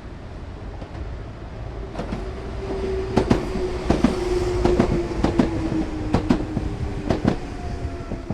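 Enoshima Electric Railway train passing, its wheels clacking sharply over rail joints in quick clusters, with a steady hum that slowly falls in pitch. The sound swells and is loudest in the middle.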